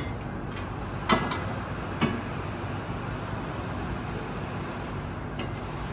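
Two sharp metal knocks about a second apart, the first the louder, as the rear section of the factory exhaust pipe comes down off the truck, over a steady background noise.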